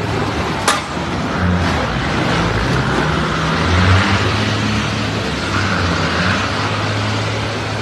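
Truck engine running steadily with a low hum and road noise, and one sharp click under a second in.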